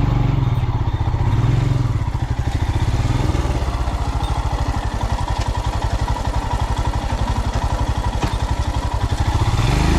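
Motorcycle engine running at low revs, its even pulsing beat coming through plainly from about two seconds in as the bike crawls over a rough dirt track.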